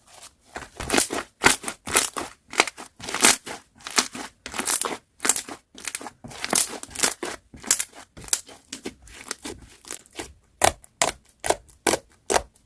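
Slime being squeezed and pressed by hand, giving an irregular run of short crackling, crunching pops, several a second.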